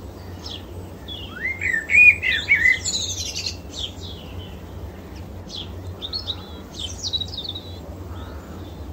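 Songbirds chirping and singing in quick, varied phrases, loudest with a warbling rising run about two seconds in, over a steady low rumble.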